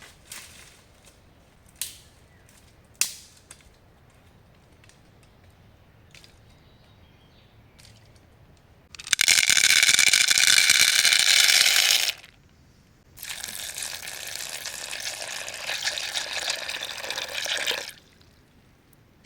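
Water being poured, or running in a stream, into a container twice. The first pour starts and stops abruptly and lasts about three seconds. After a short pause a quieter pour runs about five seconds. A few sharp knocks come before it, in the first three seconds.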